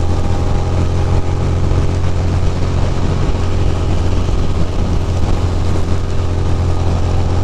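Ducati Monster's V-twin engine running steadily at highway speed, under heavy wind rushing over the microphone.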